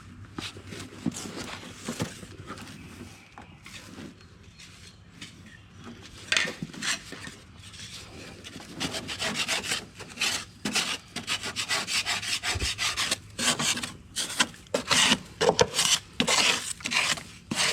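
A piece of wood scraping packed grass clippings off the underside of a riding mower's deck, in quick repeated strokes that begin about six seconds in and grow denser and louder toward the end.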